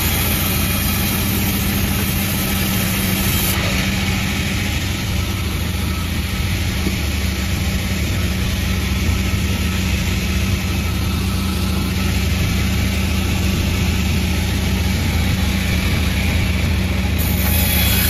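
Sawmill machine running steadily, an even low drone with no change in speed.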